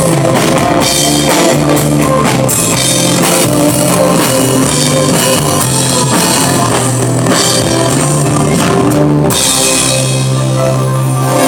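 Live pop-rock band playing an instrumental passage with drum kit, bass and guitar. About nine seconds in, the drums stop and the band holds a sustained chord.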